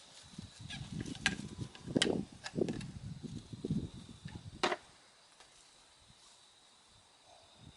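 Irregular rustling and handling noise with a few sharp knocks, dying down to quiet about five seconds in.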